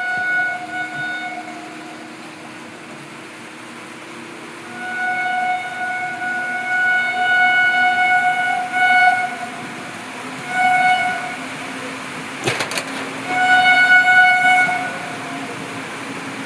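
Train horn sounding in repeated single-pitch blasts: a short one at the start, a long blast of about four seconds with brief dips, then a short one and a medium one. A sharp crack comes about three-quarters of the way through, over a faint low hum.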